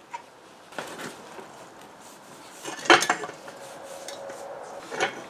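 Metal parts clinking as they are handled: a few sharp clinks, the loudest about three seconds in, followed by a brief ringing tone.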